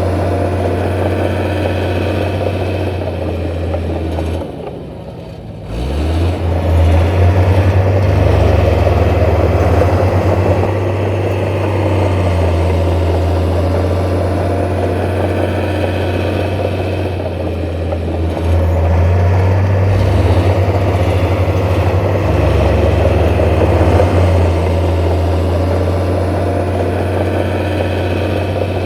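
Heavy diesel engine of earthmoving machinery running steadily. It drops off briefly about five seconds in, then picks up again.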